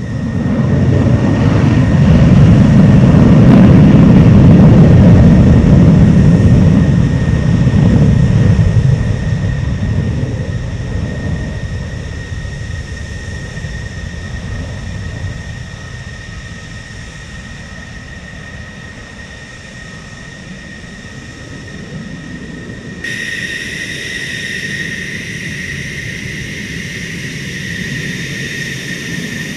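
Fighter jet's engine at high power on takeoff: a deep rumble that swells quickly, stays loud for several seconds, then fades away, over a steady high whine. About 23 seconds in, the sound switches abruptly to a steadier jet whine with stronger high tones.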